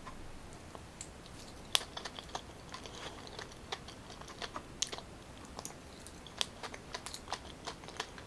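Faint, irregular small clicks and smacks from eating soft boiled purple yam close to the microphone: mouth sounds of chewing and light handling of the yam pieces.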